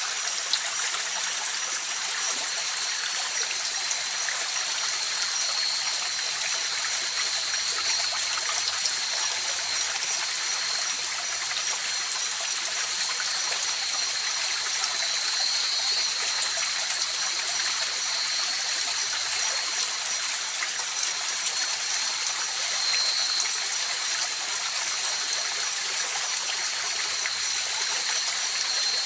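River water rushing and splashing over rocks, a steady even flow with no breaks. A thin steady high-pitched tone sits above the water.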